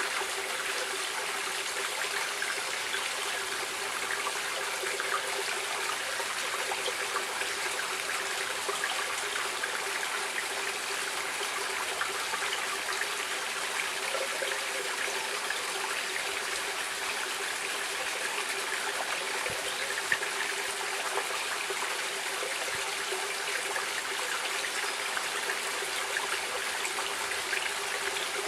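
Running water of a stream, a steady rushing and trickling with no break. There is a single small click about twenty seconds in.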